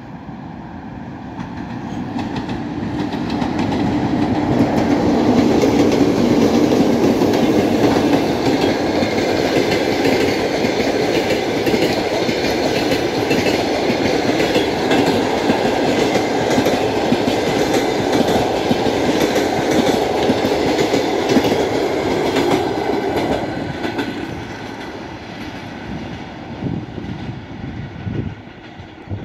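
Express passenger train hauled by two EP2K electric locomotives approaching and passing close by. Its wheels clatter rhythmically over the rail joints as the coaches roll past. The sound builds over the first few seconds, stays loud, then fades as the train moves away near the end.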